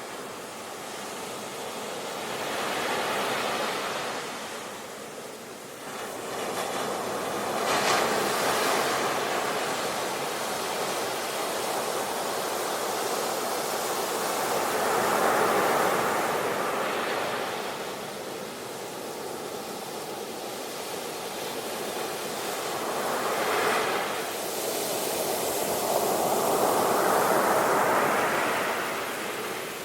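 Ocean waves breaking on a shore, the surf swelling and fading in waves every few seconds, with no other sounds.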